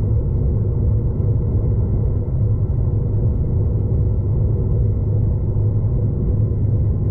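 Steady low rumble of a V/Line passenger train running along the line, heard from inside the carriage.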